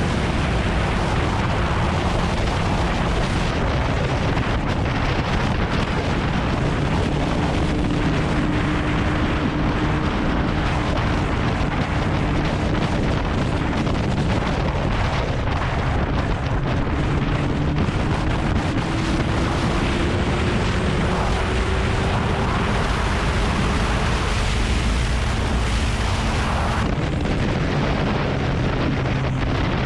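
Kawasaki Ninja ZX-9R's inline-four engine running at a steady cruise under heavy wind rush on the microphone. The engine note climbs slowly about two-thirds of the way through, then eases off near the end.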